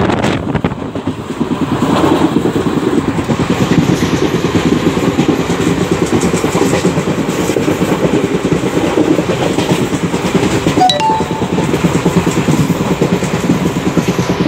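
Indian Railways passenger coach running at speed, heard from on board: a steady loud rumble and rattle of the wheels on the track.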